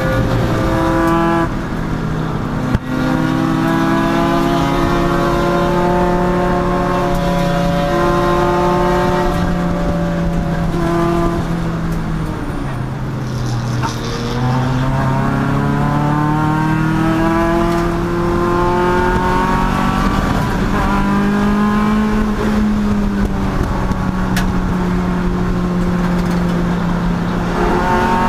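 Race car engine at speed, heard from inside the car, holding high revs with pitch steps at the gear changes. About halfway through the revs drop right down as it slows for a corner, then climb steadily again as it accelerates out; a single knock sounds near 3 s in.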